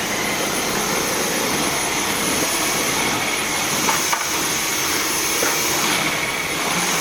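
Dyson V10 Cyclone cordless stick vacuum running steadily with a high whine over its suction noise.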